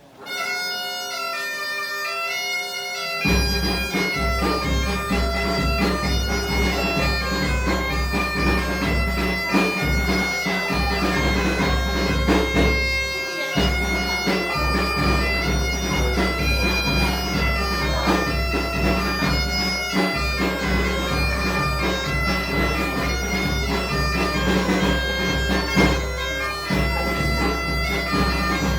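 A bagpipe, in Galicia the gaita, playing a tune live with a small folk band. A strong low steady sound joins about three seconds in and carries on under the melody.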